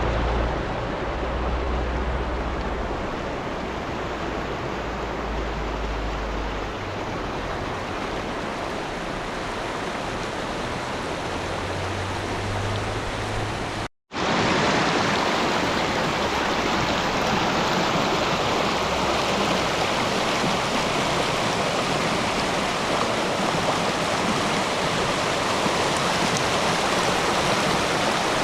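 Rushing water of a stream, a steady rush that cuts out for an instant about halfway through and comes back slightly louder.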